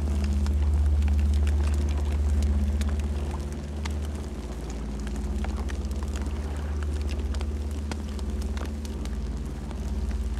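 Campfire burning with a steady low rumble and frequent sharp crackles and pops scattered throughout.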